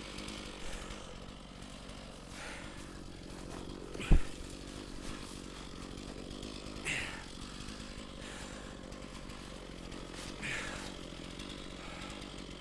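Stihl MS460 chainsaw idling steadily, with one heavy thump about four seconds in and a few lighter knocks.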